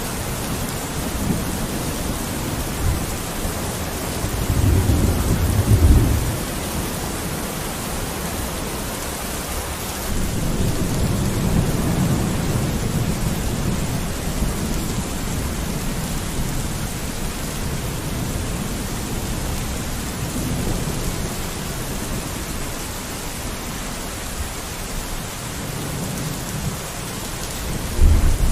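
Steady rain falling on a window, with low rolls of thunder: one swells to a peak about five seconds in, another rolls on from about ten seconds in, and a third begins near the end.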